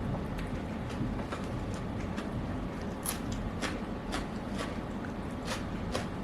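Eating sounds: irregular wet clicks and smacks of chewing, over a steady low background noise.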